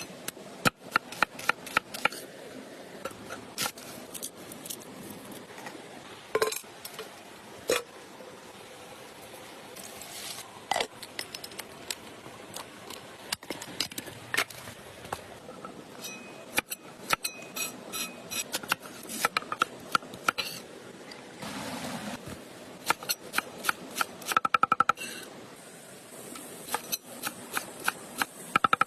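Utensils clinking and tapping against dishes and pans during cooking: many sharp, irregular clinks, some ringing briefly.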